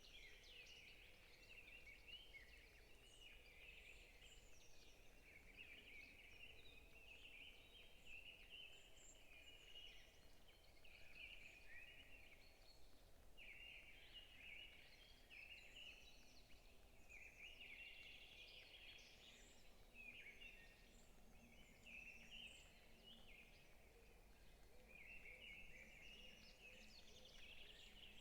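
Forest birds chirping and singing together: many overlapping short chirps and trills, faint but continuous, over a low steady background hum.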